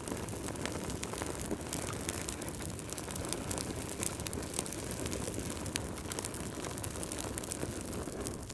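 Wood fire crackling: a steady rushing hiss with frequent small pops and snaps.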